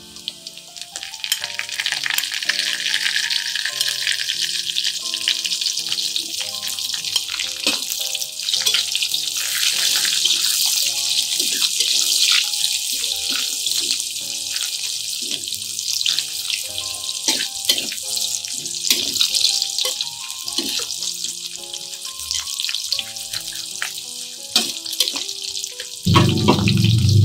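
Shallots, garlic and spices sizzling in hot oil in a wok, with a metal spatula scraping and clacking against the pan as they are stirred. A soft melody plays underneath, and near the end a louder, deep steady tone comes in.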